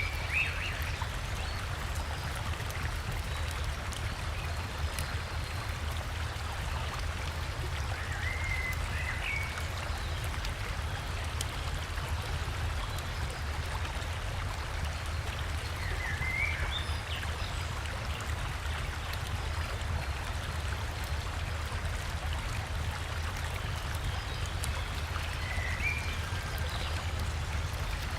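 River water rushing steadily over rocks, a constant full rush with a deep low rumble. A bird gives a short chirping phrase four times, about every eight seconds.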